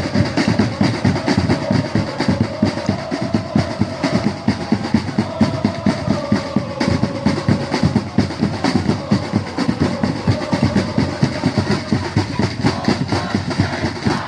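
Football supporters' drums beaten in a fast, steady rhythm, with the mass of fans chanting along under the drumming.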